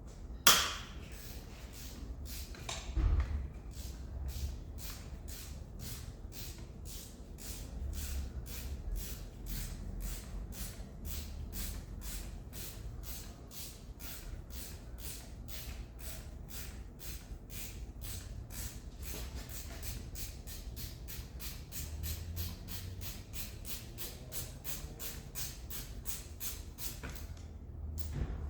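A socket ratchet clicking in a steady run of strokes as a 19 mm fitting on the side of the gearbox is wound off. The clicks come a little under three a second at first and quicken in the second half, then stop near the end. There is a sharp knock just after the start.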